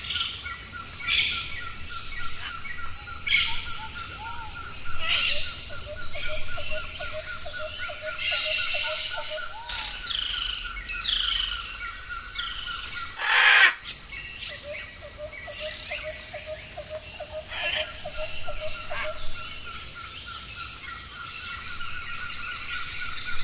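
Birds chirping and calling in a busy chorus of short high chirps and downward-sweeping notes. Under them run a steady, rapidly pulsing trill and, at times, a lower pulsing trill. One louder, sharp call comes about 13 seconds in.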